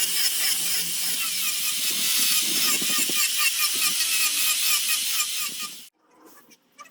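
A small power tool working wood, a dense high-pitched grinding with a fine regular ticking in it, that stops abruptly about six seconds in.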